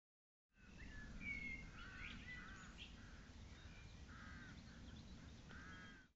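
Distant wild birds calling outdoors: a series of short, repeated calls, with a few higher chirps in the first couple of seconds, over a steady low rumble. The sound begins about half a second in.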